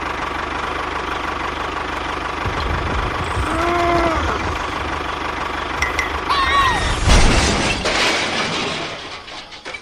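Small engine running steadily with a low rumble, louder for a moment about seven seconds in; a person's voice calls out briefly twice over it.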